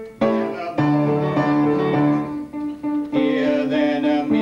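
Piano music with held notes and changing chords, with a brief drop in loudness just after the start.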